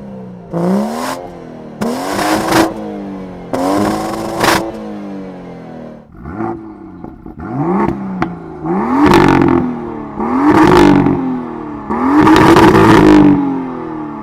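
Car engine revved repeatedly while standing, about eight blips in which the pitch climbs quickly and then falls back. The later revs are louder and held longer, the last one for over a second.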